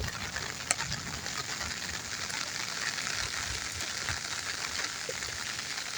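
Rainwater runoff rushing down a gully after heavy rain, a steady watery hiss with a few faint ticks.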